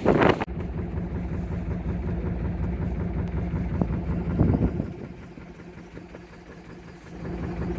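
A sailboat's engine running steadily under way, a low even hum with a constant pitch. There is a brief loud rush of noise right at the start and another about four and a half seconds in.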